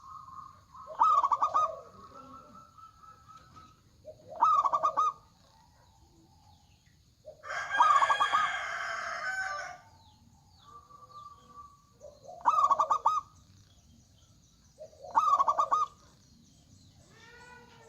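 Zebra doves (perkutut) cooing: short, loud trilled coo phrases about one every three seconds. Around eight seconds in comes a longer, louder call lasting about two seconds, with many layered pitches.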